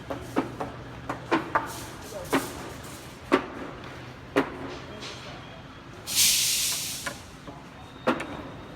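A heavy vehicle's low, steady engine hum with a dozen scattered sharp knocks and clanks. About six seconds in comes a sudden hiss of released air lasting about a second.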